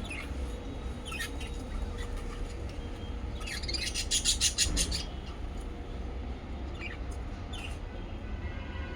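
Small pet parrots chirping: scattered short high calls, with a loud run of rapid chirps in the middle, over a steady low rumble.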